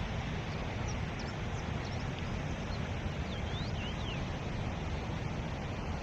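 A small bird chirping a few short, high, sliding notes in the first part, over a steady rushing noise.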